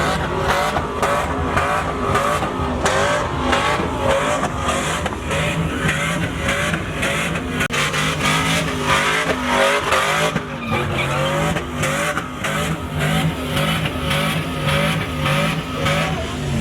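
Pickup truck engine revving hard during a burnout, the pitch rising and falling over and over with an even pulsing of about two to three beats a second, tyres squealing on the pavement.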